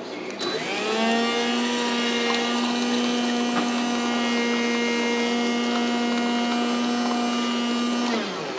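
Small electric motor in a coffee-making appliance running for several seconds with a steady whine. It spins up over about the first second and winds down near the end.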